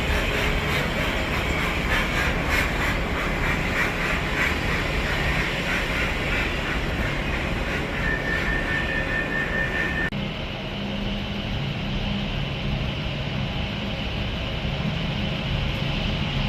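A train passing on the rails with a fast, regular clicking of wheels over joints, and a steady high squeal lasting about two seconds. About ten seconds in, this breaks off suddenly to a locomotive's diesel engine running steadily with a low hum.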